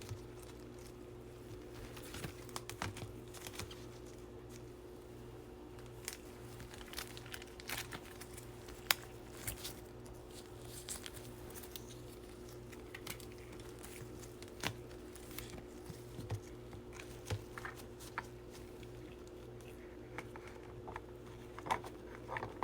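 Faint, scattered clicks and plastic crinkling of trading cards being handled and sorted in their sleeves and toploaders, over a steady faint hum.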